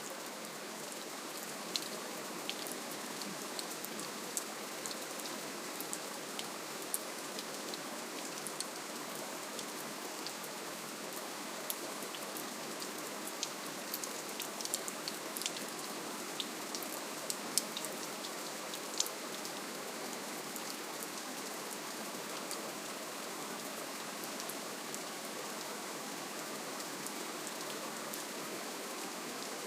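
Steady rainfall, a soft even hiss with many separate drops ticking on a surface.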